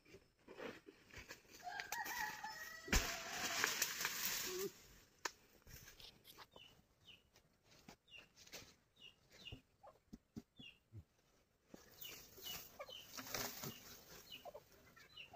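Bird calls with the chainsaw idle: a short wavering call about two seconds in, a burst of rustling noise for about a second and a half, then a run of short high chirps, with scattered light knocks.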